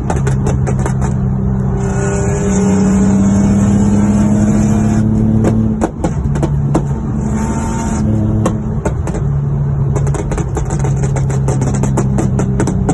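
Car engine and exhaust running under way, rising gently in pitch as it accelerates from about two to five seconds in, with many sharp clicks and knocks over a steady low drone.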